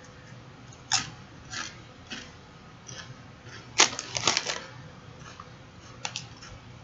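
A series of sharp clicks and crinkles from objects being handled, the loudest cluster about four seconds in.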